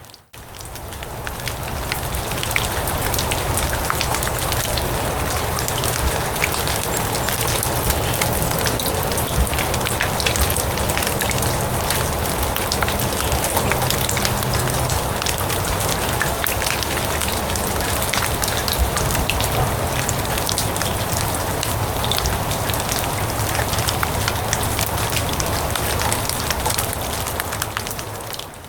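Steady rain falling on grass, a dense even patter with many close, sharp drop ticks. It fades up over the first couple of seconds and cuts out sharply at the end.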